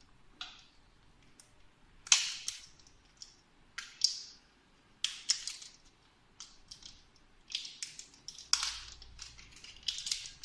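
Plastic clicks, snaps and scrapes from handling a small plastic battery case: about a dozen irregular sharp sounds, some single and some in quick clusters.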